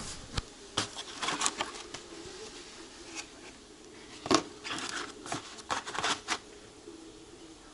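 Irregular rustling and crinkling with sharp clicks, as of things being handled up close. A faint steady hum runs underneath.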